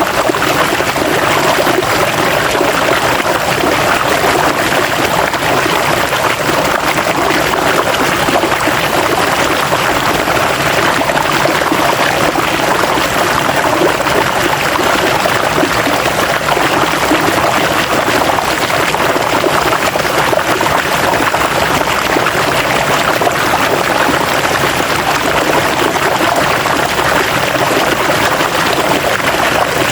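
River water flowing over rocks, a steady rushing and splashing that does not change.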